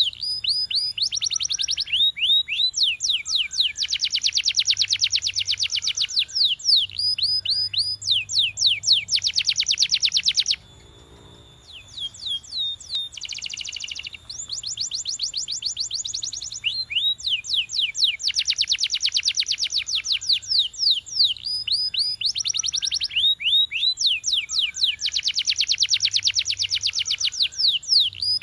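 Domestic canary singing: long rolls of fast trilled high notes and rapid falling whistles, with a short break of a second or two near the middle before the song resumes.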